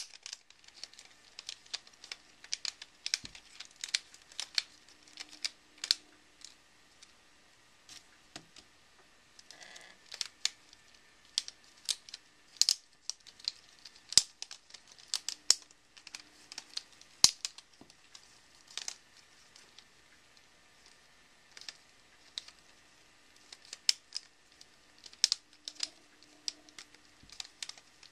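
Rubik's Snake being twisted by hand: quick, irregular clicks and clacks of its plastic wedge segments turning against each other, pausing briefly a couple of times.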